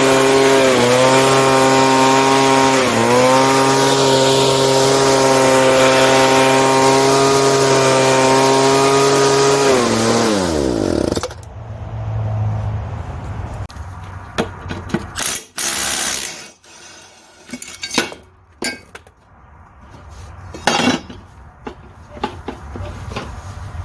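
Small gasoline engine running at a steady speed, dipping briefly twice, then winding down and stopping about eleven seconds in. Scattered knocks and clicks of handling follow.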